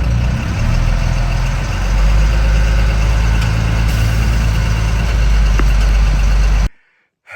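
Truck engine running steadily with a low hum, cutting off suddenly near the end.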